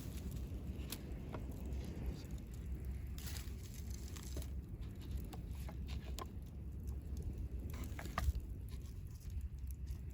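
Wood campfire crackling with scattered sharp pops, one louder pop about eight seconds in, over a steady low rumble of wind on the microphone.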